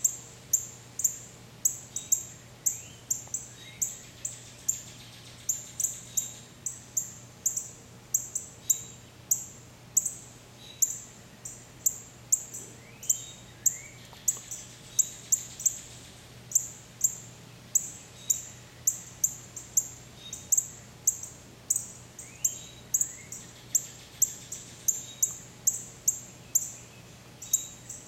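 A bird repeating a short, sharp, high-pitched chirp very evenly, about twice a second, with fainter sweeping calls of other birds now and then.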